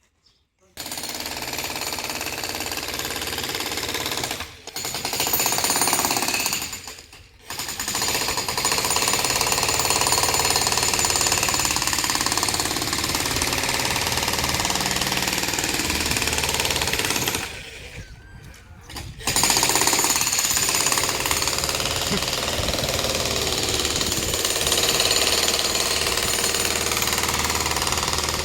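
Breaker hammer pounding the masonry of an old boundary wall during demolition: rapid, steady hammering. It starts about a second in and stops briefly three times, around four and a half, seven and eighteen seconds in.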